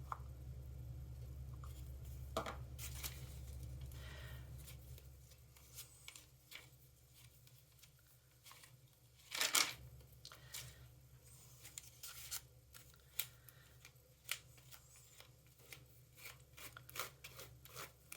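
Faint scrapes and clicks of a palette knife scooping embossing paste and spreading it across a stencil mask on cardstock, with one louder scrape about halfway through.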